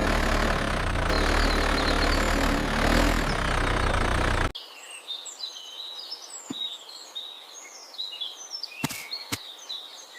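A loud, steady engine-like rumble cuts off abruptly about four and a half seconds in. Quiet birds chirping and twittering follow, with two short clicks near the end.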